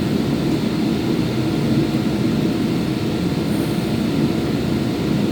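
Power sander running steadily.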